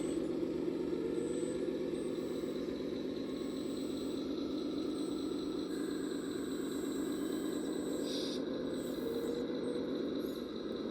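Scale RC model vehicle running, its onboard sound module playing a steady diesel engine sound, with a short hiss about eight seconds in.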